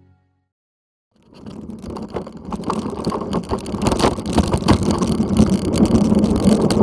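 Mountain bike being ridden over a rough trail, with tyre noise, rattling knocks from the bike and wind on the microphone. It starts about a second in and grows louder.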